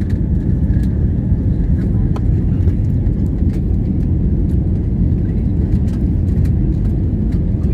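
Steady, loud, low rumble of an airliner during takeoff.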